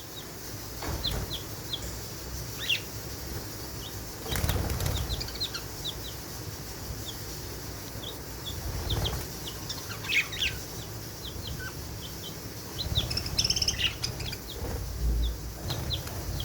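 Caged budgerigars and a chick: many short, high chirps throughout, with several bursts of wing flapping and rustling in the cage.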